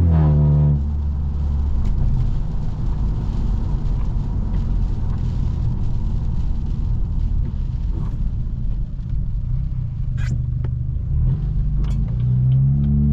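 Straight-piped BMW F30 328i's turbocharged four-cylinder exhaust dies away in the first second, leaving a long stretch of low road and tyre rumble as the car cruises. A few sharp clicks come about ten seconds in, and near the end the exhaust note rises again as the car accelerates.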